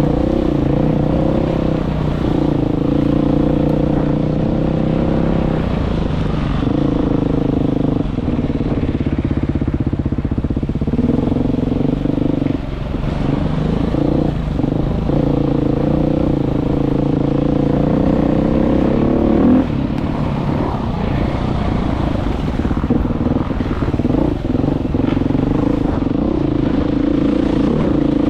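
Motorcycle engine running hard on a ride, its pitch held for a few seconds at a time, then dropping and picking up again as the throttle is eased and reopened, several times over.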